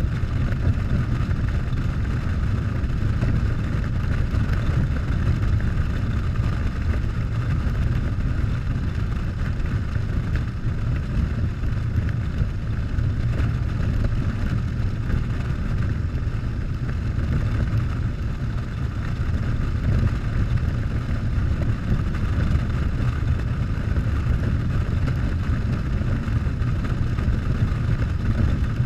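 Harley-Davidson Softail's V-twin engine running at a steady cruise, with wind rushing over the microphone as the bike rides along.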